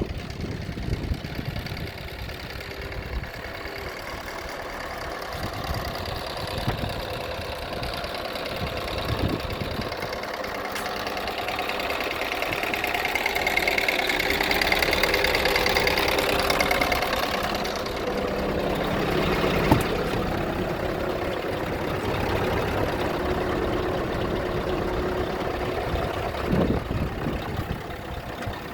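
Scania R500 truck's diesel engine idling, growing louder for a few seconds in the middle and then easing back.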